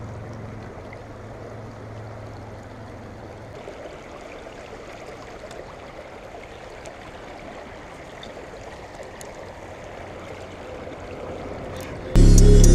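River water flowing steadily, an even rush. Loud music starts abruptly near the end.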